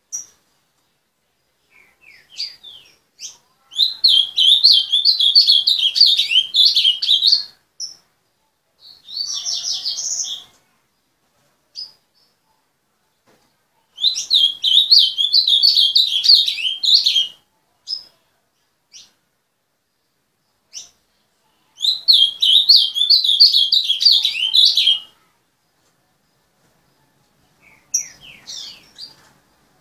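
Ultramarine grosbeak (azulão) singing: three loud phrases of rapid warbled notes of about three seconds each, with a shorter burst and a few single notes in between.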